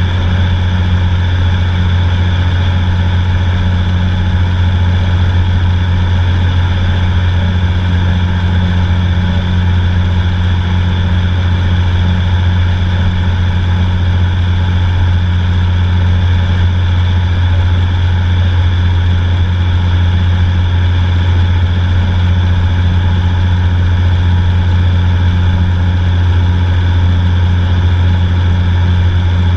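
Cessna 182 single piston engine and propeller running with a steady, unchanging drone, a strong low hum with evenly spaced overtones above it.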